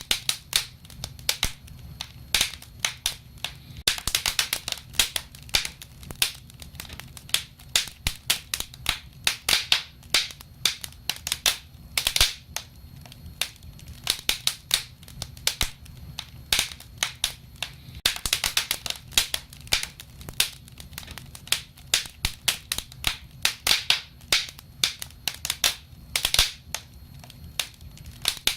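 Wood fire crackling: irregular sharp pops and snaps, some coming in quick clusters, over a low steady rumble.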